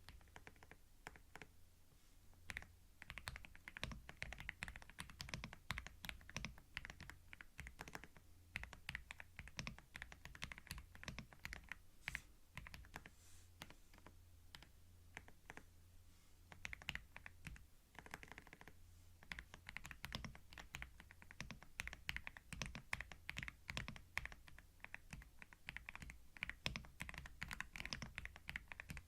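Quiet typing on a computer keyboard: a rapid, irregular run of key clicks, thinning briefly about halfway through.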